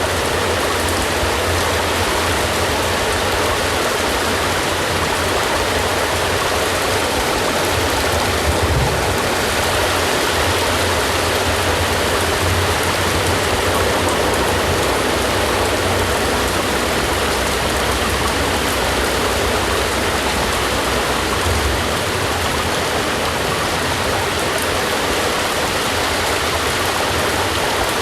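Steady, even rain, with a low rumble underneath.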